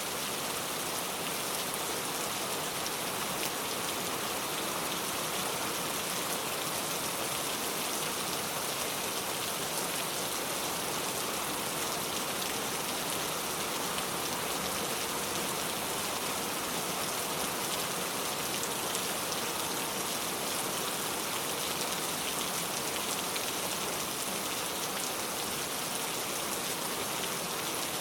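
Steady rain falling, an even patter of many drops on surfaces with a dense hiss and no pause or change.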